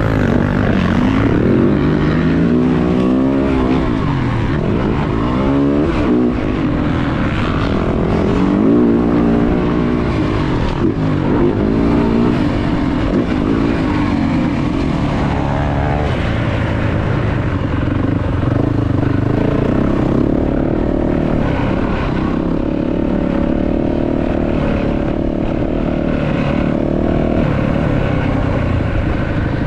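2023 Yamaha YZ450F's 450cc single-cylinder four-stroke engine revving up and down again and again as the rider opens and closes the throttle. From about halfway it runs at a steadier pitch.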